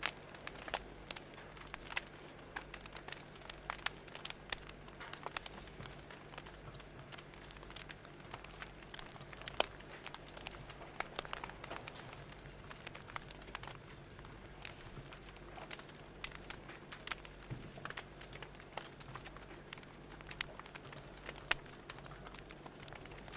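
Fire crackling, with irregular sharp pops and snaps of varying loudness over a soft steady hiss.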